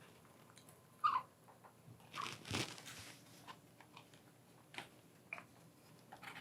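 Faint, scattered crunching and clicking of a parrot's beak working at a bird-toy castle and its snacks, with a short falling squeak about a second in.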